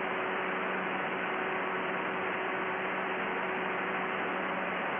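Aircraft VHF radio hiss with a low steady hum: an open, keyed channel heard over the radio audio while the pilot waits for approach control to answer. It starts just before and cuts off abruptly as the controller begins speaking.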